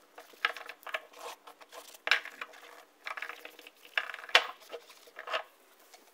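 Irregular light metallic clinks and scrapes, about eight distinct strokes with quieter scraping between them, the sharpest one a little past the middle.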